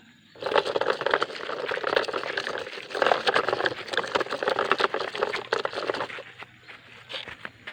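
Sand pouring and sliding, a dense gritty hiss made of many fine grains that starts about half a second in and fades away about six seconds in.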